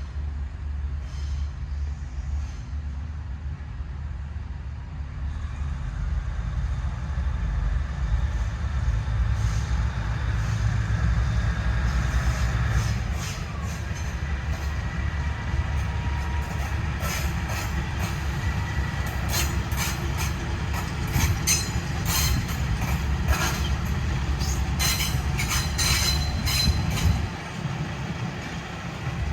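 Train pulling into the station on metre-gauge track: a steady low rumble from the diesel locomotive, with sharp metallic clanks and wheel squeals that grow more frequent from about a third of the way in.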